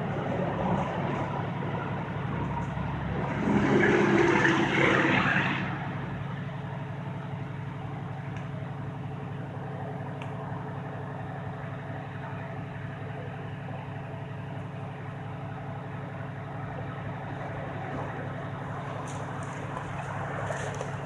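A vehicle engine running steadily at idle. About three and a half seconds in, a louder rush of noise rises over it for about two seconds.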